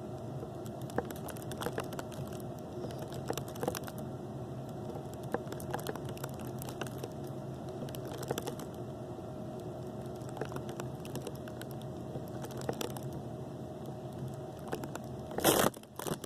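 Scattered, irregular small pops and clicks, like popcorn popping, over a steady low hum, with a louder short burst of noise just before the end.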